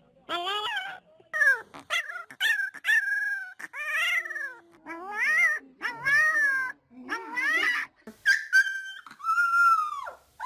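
A pet dog giving a run of a dozen or so short howling, whining calls, each one bending up and down in pitch, like the 'talking' sounds a dog makes.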